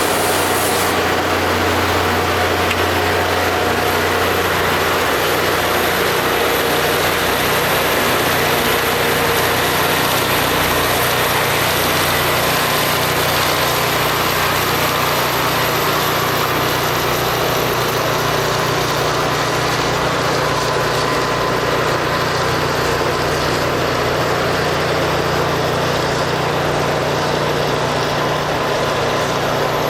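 Rail grinder at work: its engines run steadily under a continuous loud hiss that reaches high into the treble, and the low engine hum shifts up in pitch about halfway through.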